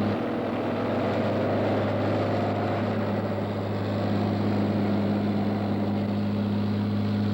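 Steady running noise of heavy construction machinery: a constant low hum under an even rushing noise, with no change in speed or load.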